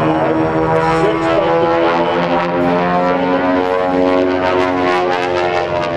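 Beech 18's twin radial engines and propellers droning steadily through an aerobatic roll, the pitch of the engine tones shifting a little about a second in.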